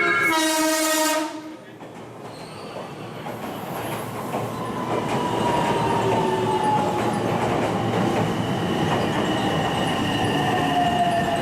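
A train horn sounds in stepped tones and cuts off about a second in. Then an electric train comes through the station with rising wheel-on-rail noise and a motor whine that falls slowly in pitch.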